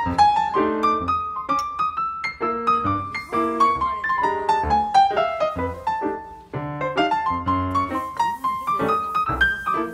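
Piano music: a melody line that falls slowly over several seconds, above lower chords.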